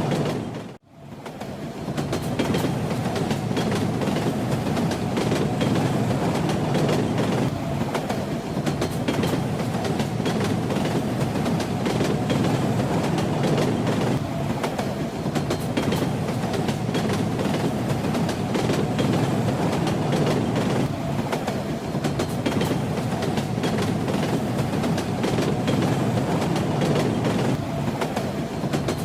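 Train running steadily: a constant low rumble with the rattle and knock of wheels over the rails. About a second in, the sound dips almost to silence and swells back.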